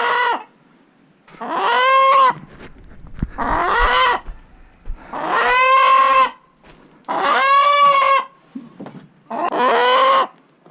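A chicken squawking loudly while being handled: about five harsh, drawn-out calls, each under a second and rising then falling in pitch, roughly one every two seconds.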